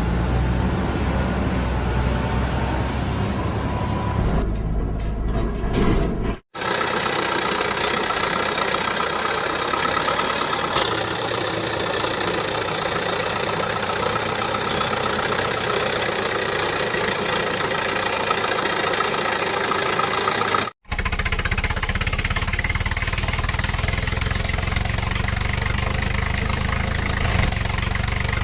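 Vehicle engine running steadily, in three spliced segments that cut abruptly from one to the next.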